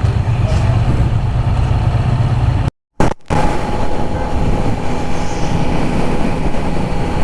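Motorcycle engine running with road and wind noise, the Triumph Trident 660's three-cylinder engine. The sound cuts to silence for about half a second near three seconds in, then the running resumes with a steady high whine over the rumble.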